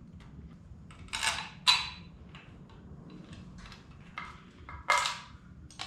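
Metal hardware and hand tools clinking and tapping while a carburetor is bolted down on a small-block Chevy intake manifold: several scattered sharp clinks and knocks, the loudest about a second and a half in and again near the end.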